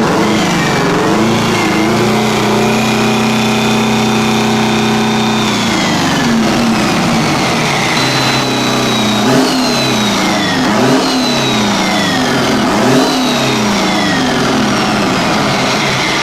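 Rebuilt Detroit Diesel 8V92 V8 two-stroke diesel on its first run, being revved. It is held at high revs for a few seconds, drops back, then is blipped up and down three times near the end.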